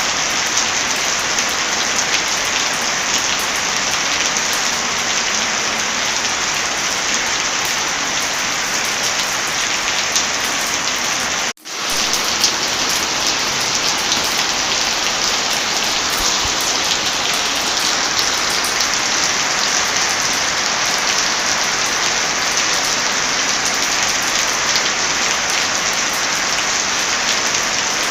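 Heavy rain falling in a steady, even hiss, with a split-second gap where the sound cuts out about eleven seconds in.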